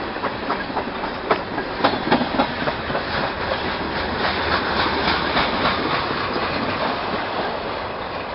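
Mixed freight train rolling past: a steady rumble of rail cars on the track, with irregular clicks and clanks from the wheels, thickest in the first few seconds.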